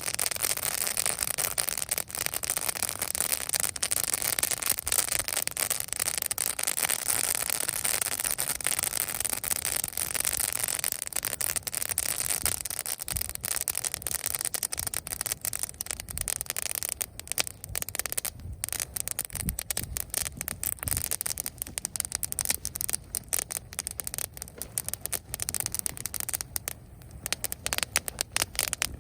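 Campfire burning dry leaves still on dead twigs, crackling loudly with dense popping. The pops thin out into separate snaps after about the middle.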